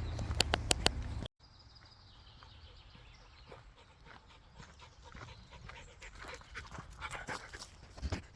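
Dog panting and footsteps on a forest path. A louder stretch with a few sharp clicks breaks off suddenly just over a second in, and quieter steps go on after it.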